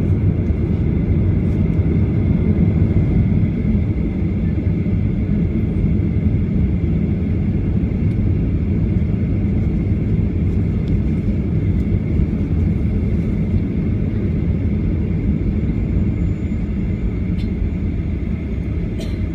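Boeing 737-800's CFM56 engines and airflow heard from inside the passenger cabin as a loud, steady low rumble, with a thin steady whine above it.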